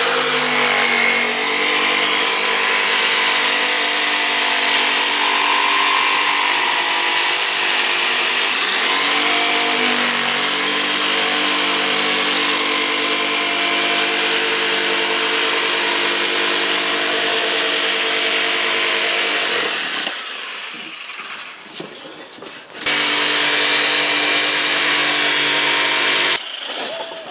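Electric power tool cutting wood, running steadily for about twenty seconds with its pitch dipping briefly about ten seconds in as it takes load. It winds down, then runs again for a few seconds near the end.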